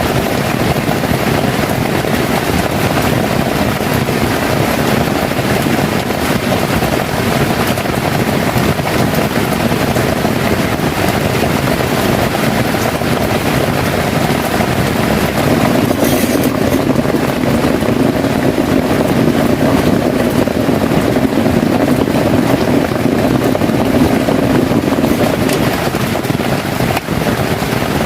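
Heavy rain falling steadily, an unbroken loud hiss and patter.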